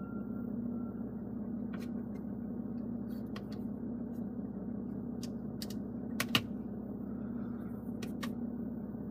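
Scattered, irregular clicks of dashboard buttons and controls being pressed, about a dozen, the loudest about six seconds in, over a steady low hum.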